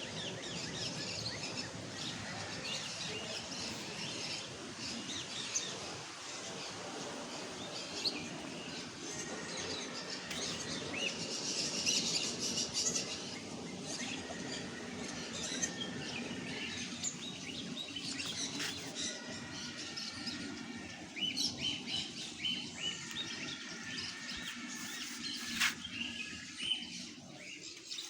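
Many birds chirping and calling at once, a dense overlapping chorus of high chirps, with a sharp click about three-quarters of the way through.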